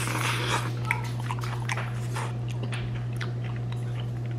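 A man chewing a hot bite of zucchini close to the microphone: a scatter of small mouth clicks and soft smacks, over a steady low hum.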